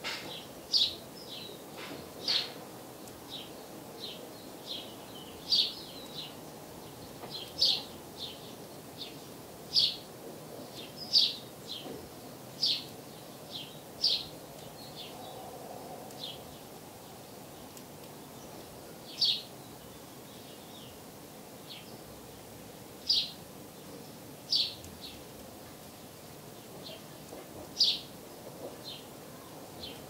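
Small songbird chirping: short, high chirps every second or so, thinning out to a few scattered ones in the second half, over a steady low background noise.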